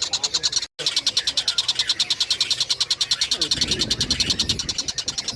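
Tengkek buto kingfisher calling: a fast, even series of high chipping notes, about ten a second. It cuts out for an instant under a second in, and a low rumble joins near the middle.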